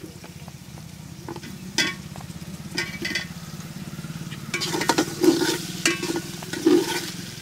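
Potato and soybean chunks sizzling in hot oil in an aluminium pot, with a few clinks as the potatoes go in. From about four and a half seconds in, a long steel spoon scrapes round the pot in repeated stirring strokes about every half second.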